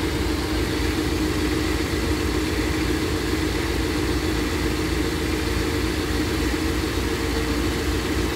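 V8 engine idling steadily on its first run after a head gasket replacement. It runs smoothly with no knocking.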